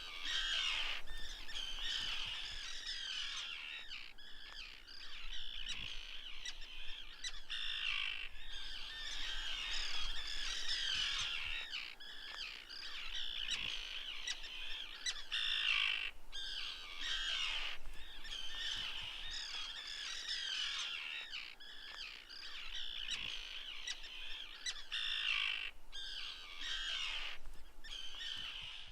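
A dense chorus of birds calling continuously, high-pitched, swelling and easing every few seconds.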